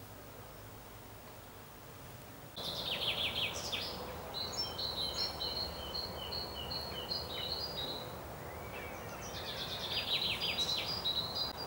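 Songbirds singing outdoors: quick trilled phrases and runs of short, high repeated notes, starting suddenly about two and a half seconds in after a quiet stretch of indoor room tone, with another trill near the end.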